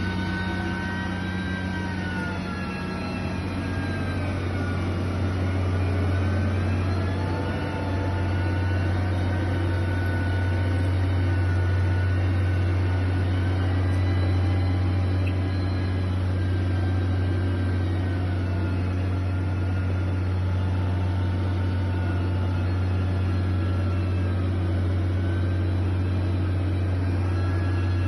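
Heavy construction machine's engine running continuously, a steady low drone whose pitch slowly wavers up and down.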